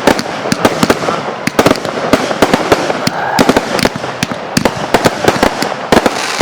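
Fireworks going off in a rapid, irregular barrage: sharp bangs several times a second over continuous crackling.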